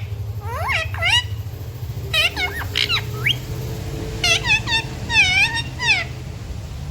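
Pet green parrot vocalising in three groups of short pitched calls that rise and fall, over a steady low hum.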